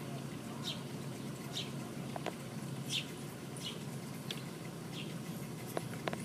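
A bird chirping over and over, short high chirps a little under a second apart, with a few faint clicks near the end.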